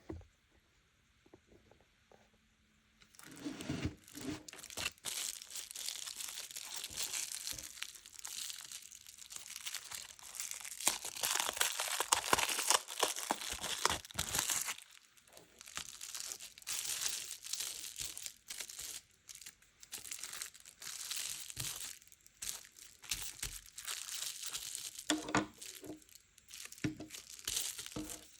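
Paper being handled by hand, crinkling and tearing in a dense crackle that starts about three seconds in, with a short pause about halfway through.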